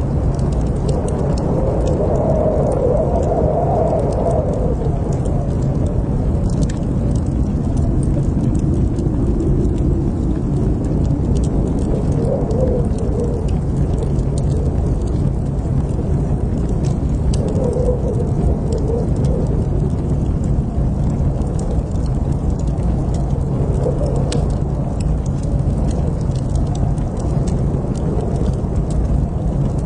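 Fire burning in a fireplace: a steady low rumbling of flames with scattered sharp crackles and pops from the burning wood.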